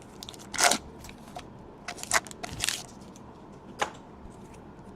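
Trading cards being handled and flipped through by hand: a few short, separate rustles and slides of card stock.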